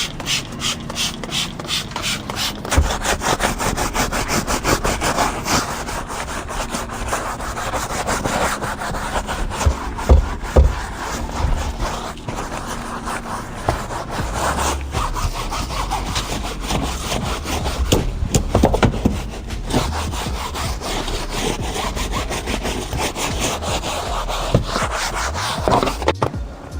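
Hand scrubbing: fast, even back-and-forth rubbing strokes against a surface, running steadily.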